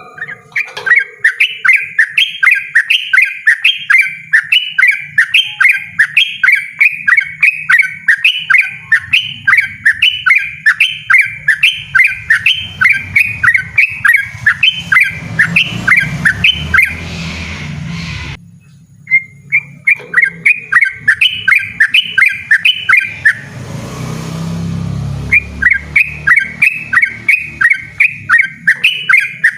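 Yellow-vented bulbul singing a loud, insistent run of quick repeated chirping notes, about two to three a second. The run breaks off abruptly about two-thirds through and starts again a second later. A low rumble rises under the song twice.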